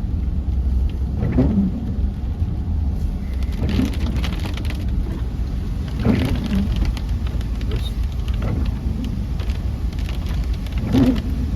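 Car running slowly on a wet road, heard from inside the cabin, with a steady low rumble. Windshield wipers sweep across the glass at an even pace, about once every two and a half seconds.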